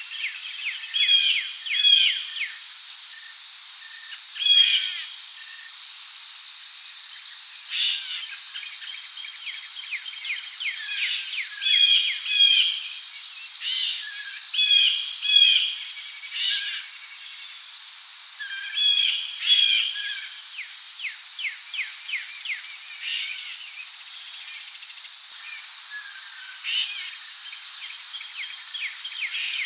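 Rainforest ambience: crickets keep up a steady high drone, while birds give short clusters of chirping calls every second or two.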